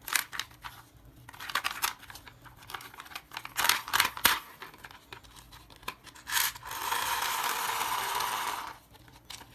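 Toy car handled by hand: scattered sharp clicks and scrapes, then a steady hiss for about two seconds near the end.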